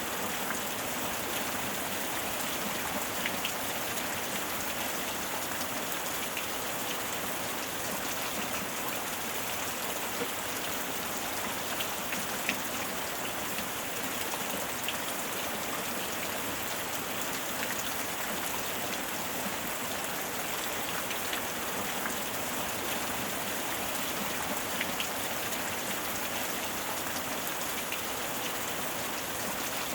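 Steady heavy rain falling, an even hiss with scattered individual drops ticking on a surface.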